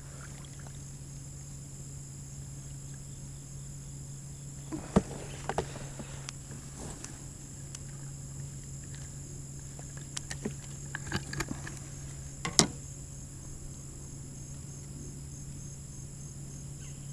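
A steady chorus of insects (crickets) holding several unbroken high tones over a low steady hum. A few sharp knocks and clicks come about five seconds in and again around ten to thirteen seconds in.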